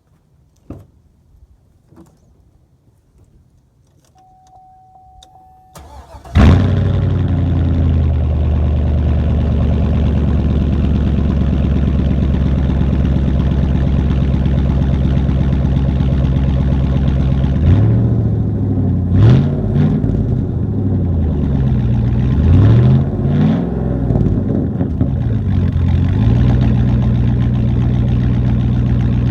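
2003 GMC Sierra pickup's engine, straight-piped through catalytic converters to dual tips, cranking and catching about six seconds in, then idling. In the second half it is revved several times in quick blips, rising and falling, before settling back to a steady idle.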